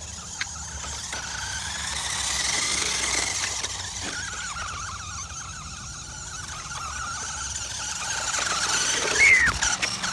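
Road traffic: vehicles passing, a rushing tyre noise that swells and fades twice, with a short high squeak about nine seconds in.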